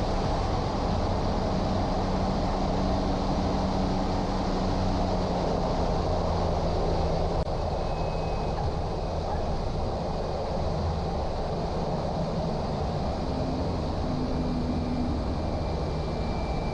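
Cessna 208 Caravan's PT6A turboprop engine and propeller running with a steady drone, dropping slightly in level about seven seconds in.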